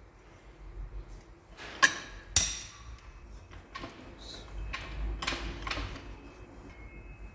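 Workshop handling noises: two sharp knocks about half a second apart near two seconds in, then a short spell of scraping or rubbing a few seconds later.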